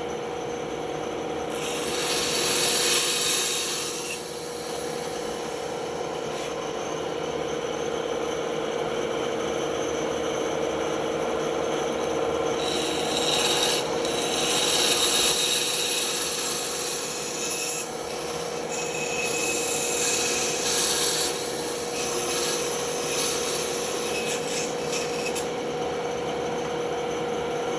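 Band saw running with a steady hum, its blade cutting into the workpiece in several stretches of high hissing rasp: about two seconds in, and again on and off from about twelve to twenty-five seconds.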